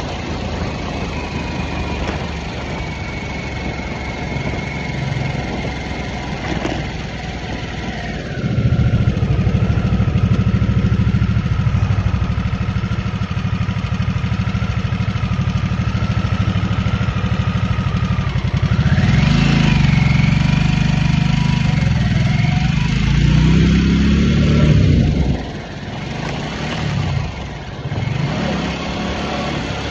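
2023 Harley-Davidson Nightster's liquid-cooled Revolution Max 975 V-twin running under way. The throttle opens about a third of the way in and the engine gets louder, pulls harder again past the two-thirds mark with rising pitch, then the throttle closes near the end with a few short blips.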